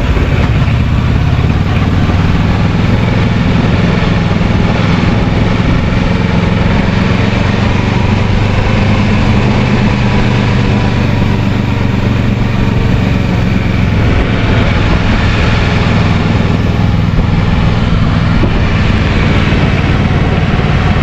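Kawasaki Versys 650's parallel-twin engine running at a steady, even pace, under a steady rushing noise.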